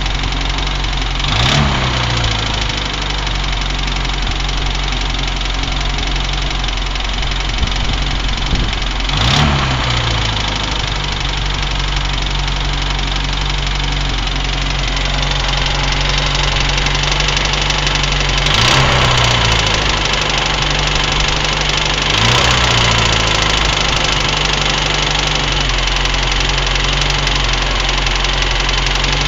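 UAZ engine idling with an extraneous knock, its throttle blipped four times, the revs rising quickly and falling back to idle each time.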